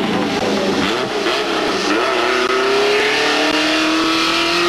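Rally car engine under hard acceleration: a few uneven revs at first, then a steady climb in pitch as it pulls through the gear.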